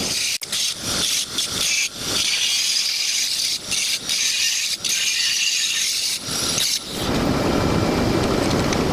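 Angle grinder grinding steel, a harsh, hissing grind with brief breaks. About seven seconds in it changes to a fuller, lower grinding noise.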